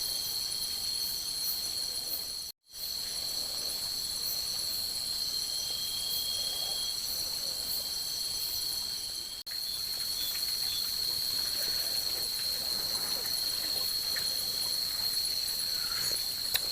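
Night chorus of crickets and other insects: a steady, shrill, high drone, with a few fainter high tones layered above it. The chorus cuts out completely for a moment about two and a half seconds in.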